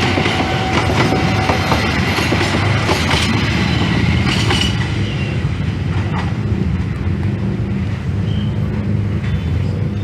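Passenger train running on rails, its wheels clicking over rail joints over a continuous rumble, with a thin wheel squeal that stops about two seconds in. About halfway through the clicking fades and a steadier low rumble carries on.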